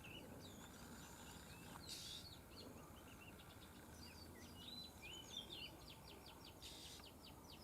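Oriental magpie-robin singing faintly: a string of varied whistled phrases that turns into a quick run of repeated notes in the second half.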